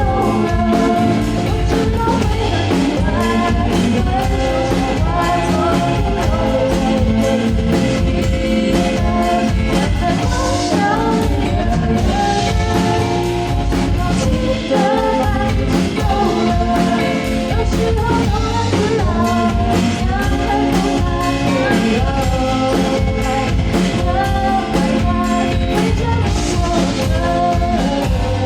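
A pop-rock band playing a song: a sung lead vocal over drum kit, electric guitar and bass.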